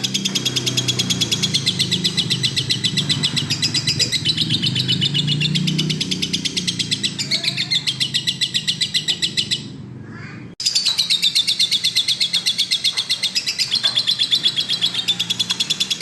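Lovebird chattering in a fast, continuous stream of shrill chirps, dipping for about a second near the middle before starting again abruptly.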